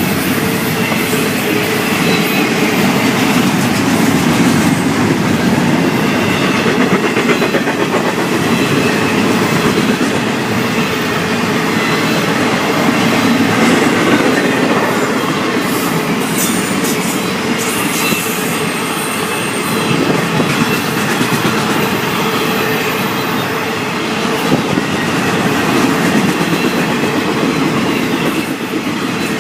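Florida East Coast Railway freight cars rolling past close by: a loud, steady noise of steel wheels on the rails.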